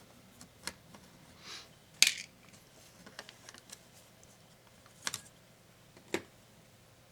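Small tools and laptop parts being handled, giving scattered clicks and taps. A short scrape comes about a second and a half in, then the loudest sharp click, and two more clicks near the end.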